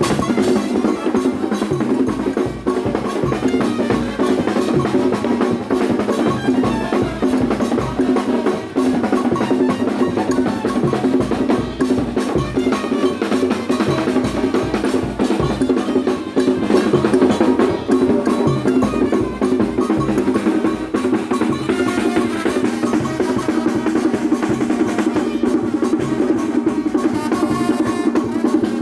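Percussion music for soloku dancing: fast, steady drumming with sharp wood-block-like clicks, continuous throughout.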